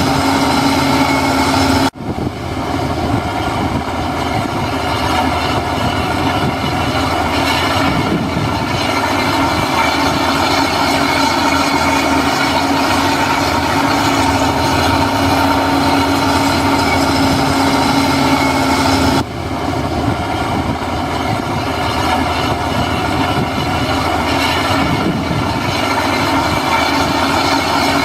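Heavy construction machinery's diesel engine running steadily at a constant pitch, with a sharp break about two seconds in and again near nineteen seconds where the sound drops out briefly and comes back.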